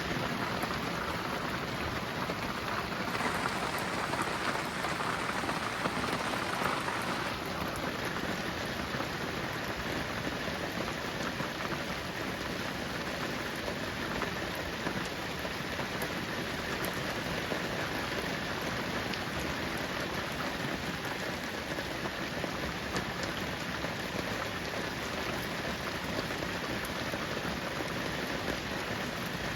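Steady rain falling, with scattered drops ticking; a little heavier for a few seconds near the start.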